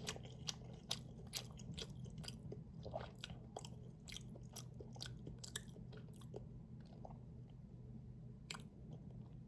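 A person chewing food close to the microphone: faint, irregular small clicks of the mouth and teeth, a few a second.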